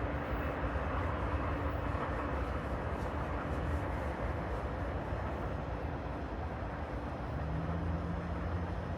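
Metra commuter train rolling on the rails: a steady rumble with a faint hum that drops out partway through, and a lower hum that comes in near the end.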